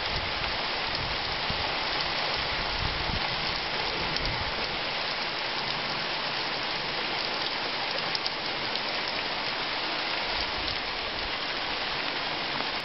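Heavy rain pouring down, a steady even hiss with the odd close drip tapping.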